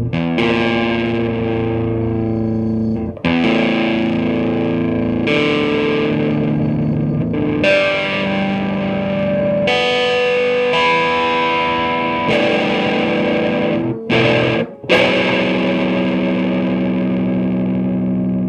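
Electric guitar played through an Ibanez TSA30 tube amp with its Tube Screamer overdrive switched on: distorted chords held and ringing, changing every couple of seconds, with brief breaks about 3, 14 and 15 seconds in.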